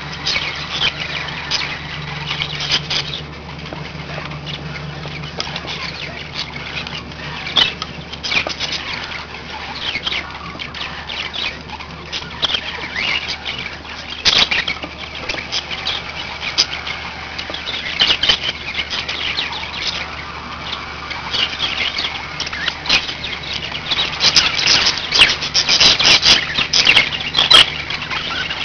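Several budgerigars chattering and chirping with constant squawky warbles and clicks, busier and louder over the last few seconds, over a steady low hum.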